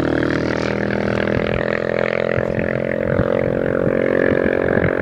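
Motorcycle engine running at a steady speed, a low drone that holds even without revving.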